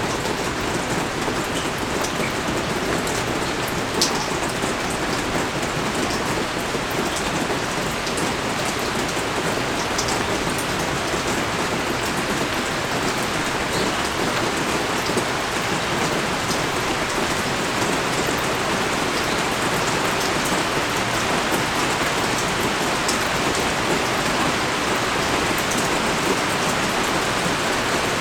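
Steady pouring rain, a dense even hiss of drops, with a few sharper, louder drop impacts now and then.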